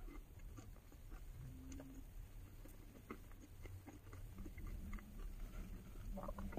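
Faint chewing of a snack, with small scattered crunches and clicks, over a steady low rumble in a truck cab.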